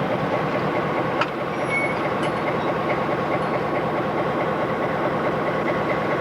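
Diesel switcher locomotive running steadily close by, with a sharp click about a second in.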